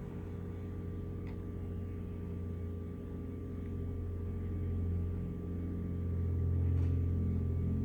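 Steady low electrical hum of a bench power supply running the electropolishing current, growing louder about five seconds in, with a couple of faint clicks.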